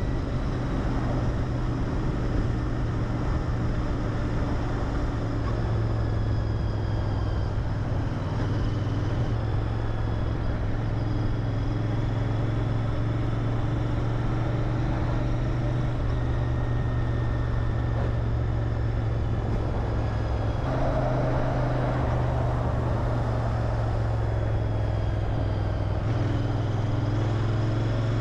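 Royal Enfield Interceptor 650's parallel-twin engine through its stock exhaust, running steadily while riding. The engine note shifts in pitch a few times.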